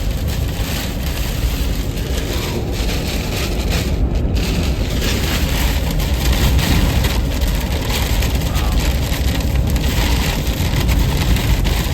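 Heavy rain pounding on a car in a severe thunderstorm, with wind buffeting it: a steady loud rushing noise over a deep rumble.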